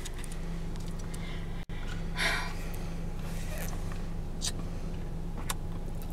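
A boiled peanut being eaten: one short breathy slurp about two seconds in as the nut is sucked from its wet shell, then two faint clicks, over a steady electrical hum.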